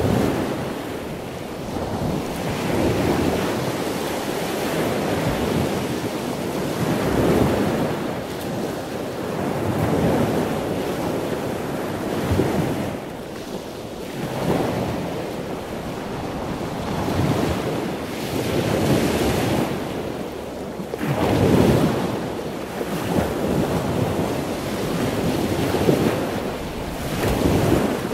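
Ocean waves washing in, a steady rush that swells and falls back every two to three seconds.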